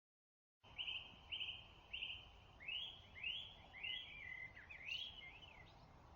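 Song thrush singing: a short descending note repeated three times, then a second phrase given twice, then more varied phrases, each about half a second apart, over faint background hiss. The sound starts abruptly about half a second in.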